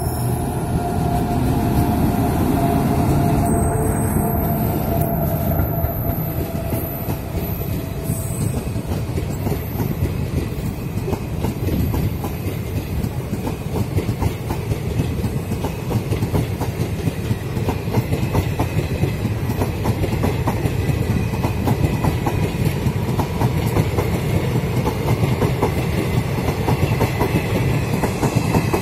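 Passenger train hauled by a WAP7 electric locomotive passing close by as it accelerates away: the locomotive's whine falls in pitch and fades over the first several seconds, then the coaches roll past with a steady, loud clickety-clack of wheels over rail joints and a low rumble.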